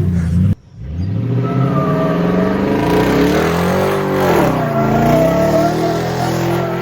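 Pickup truck engine revving hard while the truck is drifted, its pitch climbing, dipping and climbing again. The sound drops out briefly about half a second in, then picks up again.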